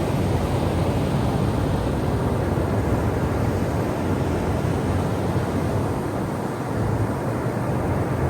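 Ocean surf washing on a shore: a steady, rumbling wash of water noise with no separate break. The hiss thins a little after a few seconds, and the level dips briefly about six and a half seconds in.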